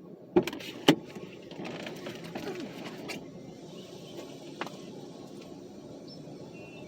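Two sharp clicks about half a second apart, then a car's sounds with a few softer knocks.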